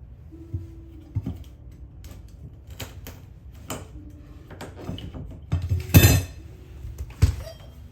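A series of irregular knocks and clinks of hard objects being handled, with the loudest knock about six seconds in and another sharp one just after seven seconds.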